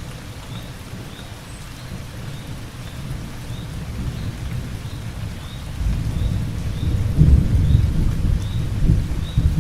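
Steady rain with a low rolling thunder rumble that builds about six seconds in and peaks soon after. A faint high chirp repeats about every half second over the rain.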